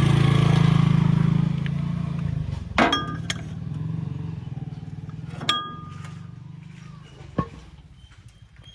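Mahindra tractor's diesel engine running with an even, low throb that drops in level after about two seconds and runs on more quietly. Several sharp metallic clinks ring out over it, about three seconds in, again at five and a half and near the end.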